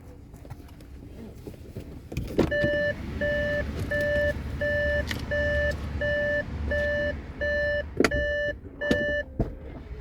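A car's electronic warning chime beeping steadily about twice a second for several seconds, then stopping, over a low engine rumble. Several sharp knocks, like door or seat handling in the car, come at the start of the beeping and near its end; these are the loudest sounds.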